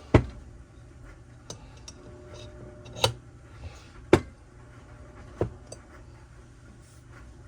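Metal saw-engine parts (crankcase half and crankshaft) being handled and set down on a workbench: scattered sharp clicks and knocks, four of them louder and spread over several seconds, over a low steady hum.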